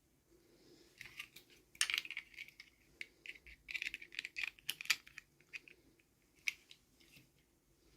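Quick, light clicks and taps of small plastic toy pieces and packaging being handled, in clusters through the middle and thinning out with a last click at about six and a half seconds.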